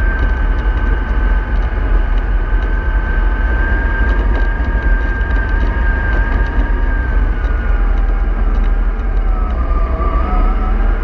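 A moving vehicle running steadily with a loud low rumble and a whining drive tone; the whine dips in pitch about nine seconds in, then climbs back near the end as it slows and picks up speed again.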